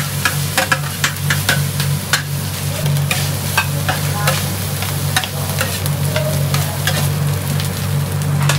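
Food sizzling as it is fried and stirred, with frequent sharp clinks over a steady low hum.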